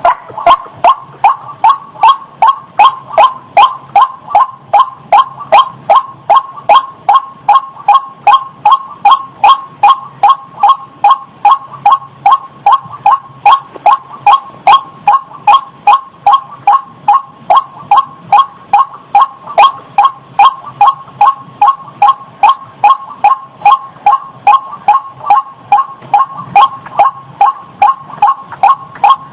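White-breasted waterhen calling: one short, pitched note repeated evenly and without pause, about two to three notes a second.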